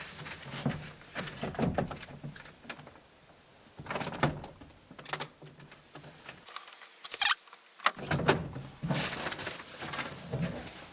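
Plastic vacuum-seal bag rustling and crinkling as a duck carcass is handled and slid into it.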